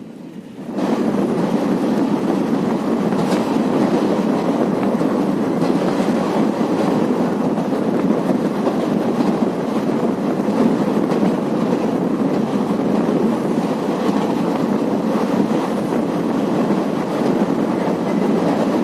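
Passenger train coaches running along the track, a steady loud rumble of wheels on rail with a few faint clicks from the rail joints. The rumble jumps suddenly louder about a second in.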